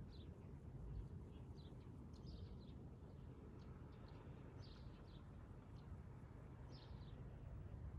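Faint short bird chirps, scattered a few at a time, over a low steady rumble.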